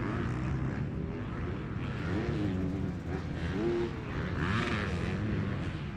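Motocross bike engines racing around the track, their pitch rising and falling repeatedly as the riders rev and back off.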